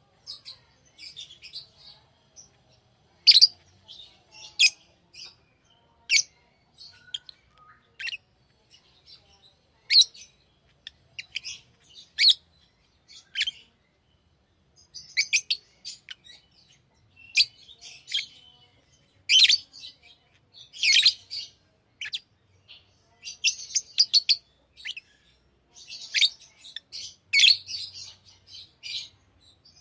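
Pet lovebirds chirping: short, sharp, high-pitched chirps in irregular clusters, with brief pauses between them.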